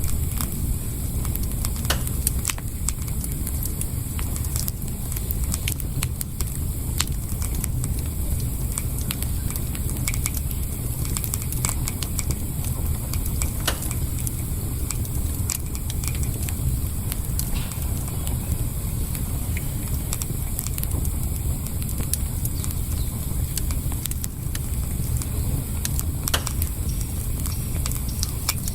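Campfire burning, with irregular sharp wood crackles and pops over a steady low rumble.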